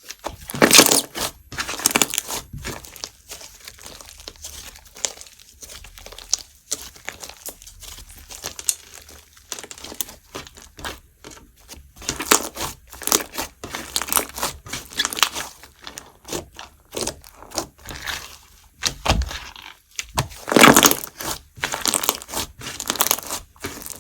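A melon cream slime with chips mixed in, squished and stretched by hand, giving irregular crackling, crinkly pops and crunches. The crackling swells into louder clusters about a second in, again around the middle, and near the end.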